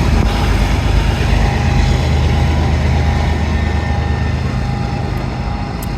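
GE wide-cab freight diesel locomotives with 16-cylinder engines passing close, a steady deep engine rumble with a faint steady whine over it.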